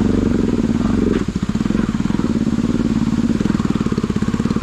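Bajaj Pulsar NS200 single-cylinder engine running steadily under way, with a brief dip about a second in.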